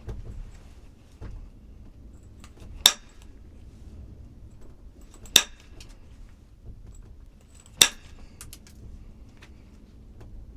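Three sharp clinks of hard objects striking each other, evenly spaced about two and a half seconds apart.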